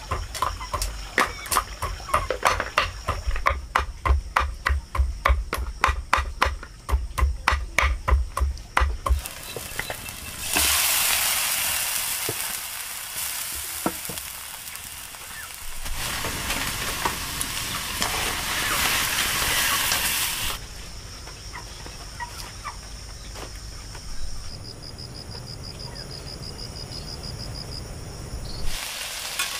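Repeated sharp knocks, about two or three a second, for the first nine seconds. Then a sudden loud sizzle of food frying in a hot pan starts and, after about ten seconds, settles into quieter steady frying.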